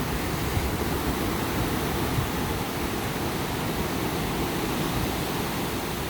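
Ocean surf washing steadily onto a beach, a continuous deep rushing with no breaks.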